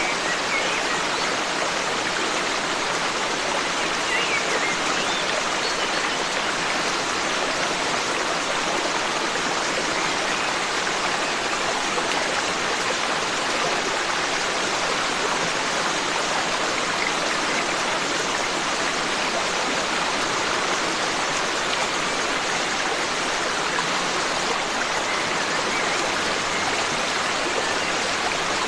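Forest stream flowing, a steady, even rush of water, with a few faint bird chirps.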